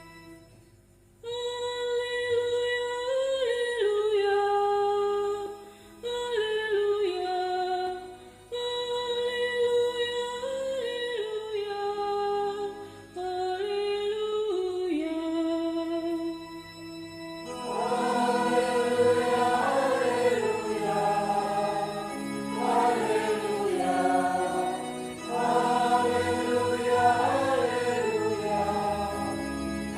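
Church choir singing a hymn. The opening phrases are thin and soft, and the full choir comes in louder about halfway through.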